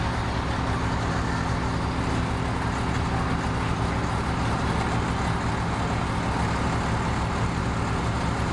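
A heavy machine's diesel engine running steadily at a constant speed, with no revving.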